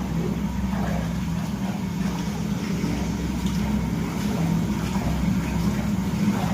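Washing machine running steadily, its motor humming as it churns water and detergent.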